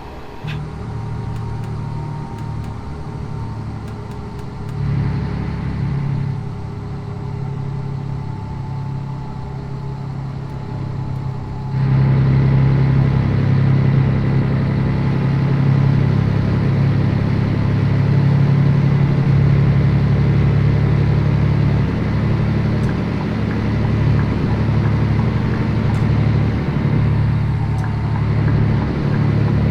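Scania 113 truck's six-cylinder diesel engine running while driving: a steady low drone that gets louder about twelve seconds in and stays up.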